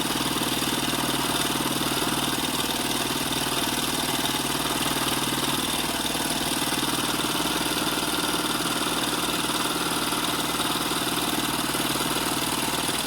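Homemade Stirling hot-air engine built from drink cans and scrap parts, running steadily with an even, rapid mechanical beat. A low steady hum beneath it drops out about halfway through.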